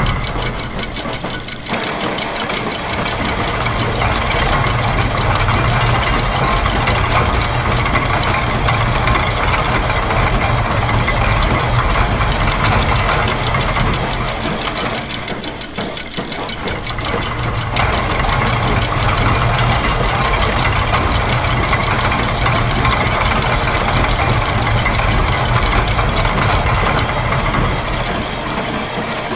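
Layered loops of factory machine sounds (gears, presses, ratchets, clockwork and sewing machines) running together as a dense, steady mechanical clatter with rapid ticking over a low hum. The low hum thins out briefly twice, near the start and about halfway through.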